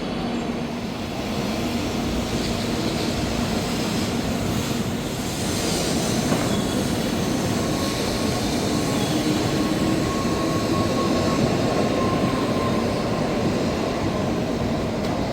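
Shinkansen Nozomi train moving along the station platform: a steady rumble and rush of wheels and running gear, with a faint high whine that grows a little louder through the second half.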